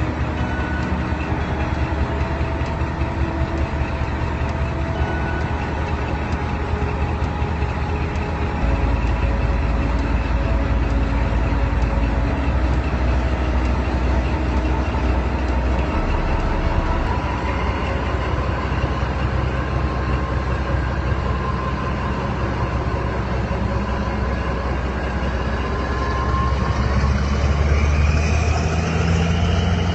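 Diesel locomotive engine running steadily with a heavy low rumble, growing louder and rising slightly in pitch near the end.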